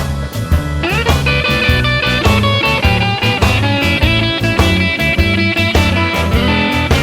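Blues band instrumental break: a guitar plays lead lines over bass and drums with a steady beat, with a rising bent note about a second in.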